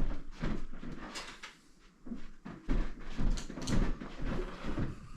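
Irregular knocks and clatter of someone searching for a cutting tool, with cupboard and drawer sounds in a small room, and a short lull just before the middle.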